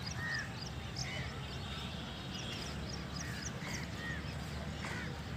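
Birds calling: repeated short arched calls and quick high chirps, over a steady low rumble.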